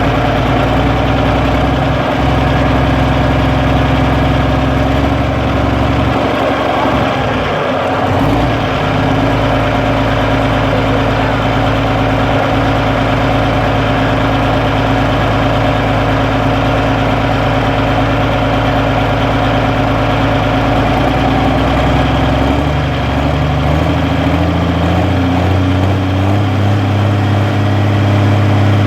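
Tractor-pull tractor's engine running loud and steady at idle, with a wobble in its note about seven seconds in and its speed stepping up a little near the end.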